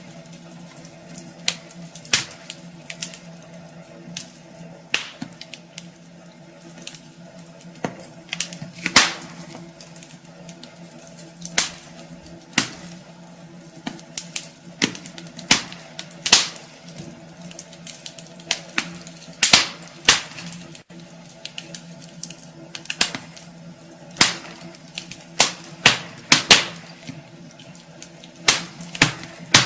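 Wood fire burning in a fireplace, the logs crackling with irregular sharp pops and snaps, some much louder than others, over a faint steady hum.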